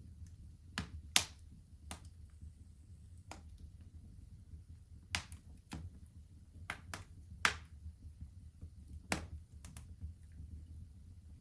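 Fire crackling in a fireplace: sharp, irregular pops and snaps, the loudest about a second in and again past the middle, over a low steady rumble.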